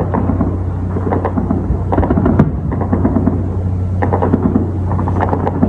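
Distant anti-aircraft autocannon fire: several bursts of rapid cracking reports that echo and rumble, over a steady low hum.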